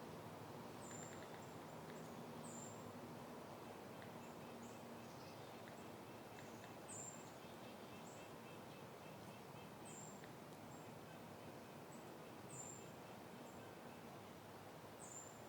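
Soft, faint outdoor wind with small birds giving short high chirps every couple of seconds, and a faint rapid trill in the middle.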